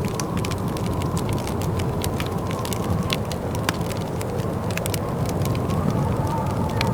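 Wood fire crackling in a fireplace: a steady low rumble of burning logs with frequent irregular sharp pops and snaps.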